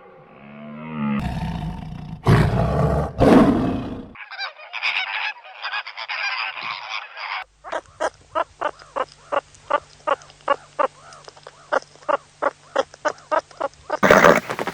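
Animal calls one after another: a few loud calls in the first four seconds, then a rough, raspy stretch, then a long run of short calls repeated evenly, about four a second.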